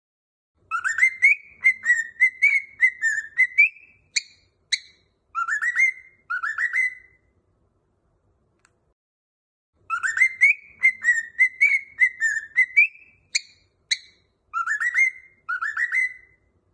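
Cockatiel whistling a song phrase: a quick run of chirpy warbled notes, two higher notes, then two rising whistles. The same phrase comes twice, with a pause of about three seconds between.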